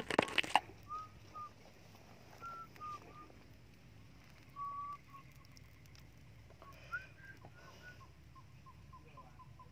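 Bird calls: short whistled notes, single or in pairs, scattered over several seconds, ending in a quick run of repeated notes near the end. A brief loud rustling knock comes right at the start.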